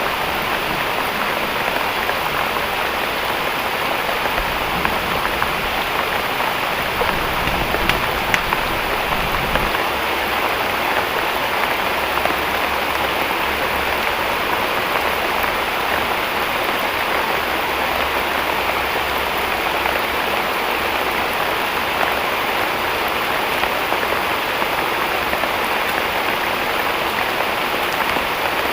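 Heavy tropical rain falling steadily, a dense even hiss of rain.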